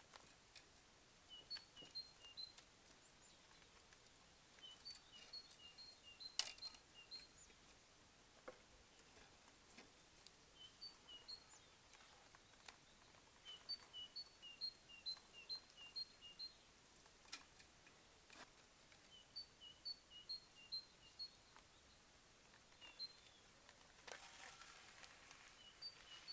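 A small songbird singing faintly: repeated runs of three to seven short chirps that alternate between a higher and a lower note, with a few sharp clicks in between.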